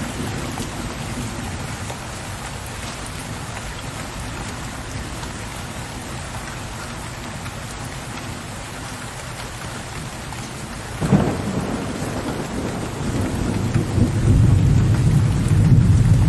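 Steady rain falling, then a sudden crack of thunder about two-thirds of the way through, followed by a deep, low thunder rumble that grows louder toward the end.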